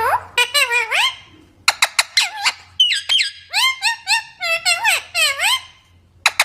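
A parrot chattering: a quick run of squeaky calls and clicks, each call sliding up or down in pitch, with a short break about a second and a half in.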